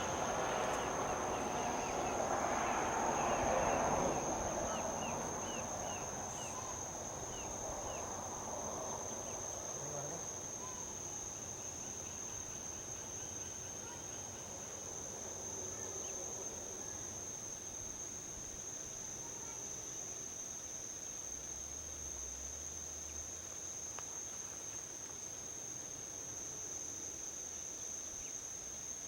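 Crickets or similar insects trilling in one steady high note, with a vehicle passing on a highway: its tyre and engine noise swells to a peak about four seconds in and fades away over the next several seconds. A few short chirps sound in the middle of the pass.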